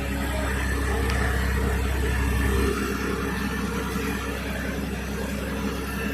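Heavy machine's engine running hard under load with a deep drone, easing off abruptly about two and a half seconds in, then running on steadily.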